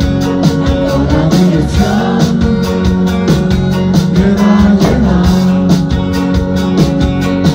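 Rock song with a singing voice, guitar and a steady drum beat.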